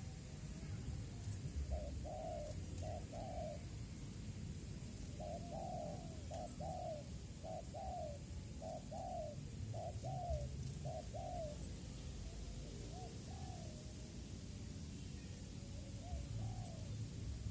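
Spotted doves cooing in repeated phrases: a short run of coos about two seconds in, a longer run from about five to eleven seconds, then a few single coos near the end, over a low rumble.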